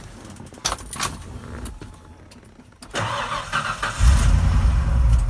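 A few clicks, then a truck engine cranks about three seconds in and catches a second later, settling into a steady low idle. It is running through a newly fitted muffler and sounds a lot quieter.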